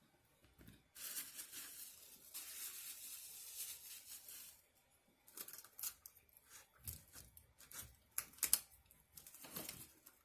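Paper or plastic packaging being rustled and torn for about three and a half seconds, then a run of sharp crinkles and handling clicks.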